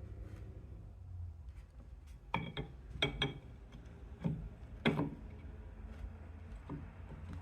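Metal tools and engine parts clinking and knocking, about six sharp strikes with a short metallic ring, over a low steady hum.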